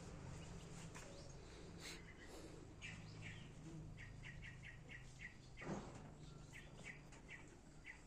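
Small bird chirping outside the stable in quick runs of short chirps, several a second, over a faint low steady hum. A single short thump comes a little past halfway and is the loudest sound.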